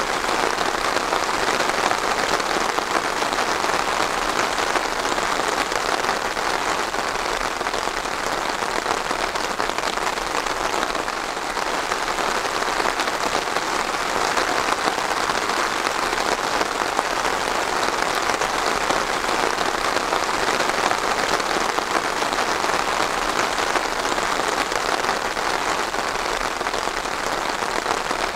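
Steady rain falling and pattering on a surface, an even hiss of many drops without a break.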